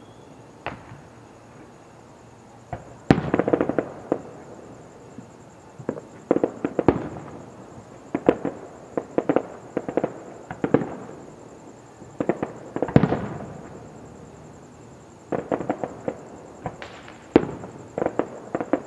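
Fireworks display: aerial shells bursting in rapid clusters of sharp bangs, each cluster trailing off briefly, with short lulls between.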